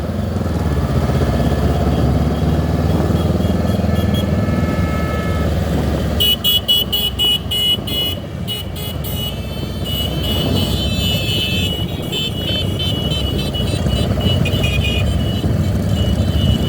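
Motorcycle and traffic engines running steadily in a convoy, with many vehicle horns honking in short repeated beeps starting about six seconds in and recurring near the end.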